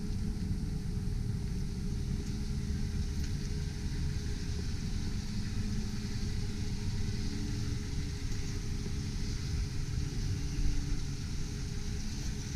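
A 2001 Mazda B4000's 4.0-litre V6 idling steadily, a low rumble.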